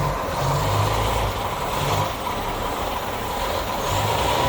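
Heavy diesel truck engine running with a low rumble that shifts slightly in pitch, under a thin steady high whine.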